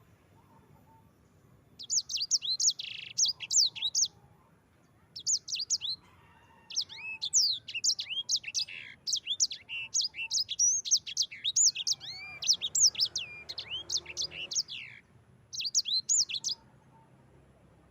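A sanger, a canary-type songbird, singing in bursts of fast, high, sweeping trilled notes. There is a long unbroken run in the middle and short phrases before and after, separated by pauses.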